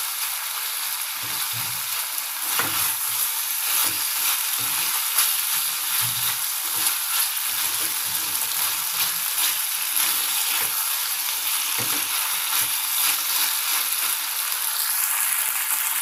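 Cubed pumpkin frying in oil in a kadai, a steady sizzle, with a spatula stirring and scraping through the pieces now and then.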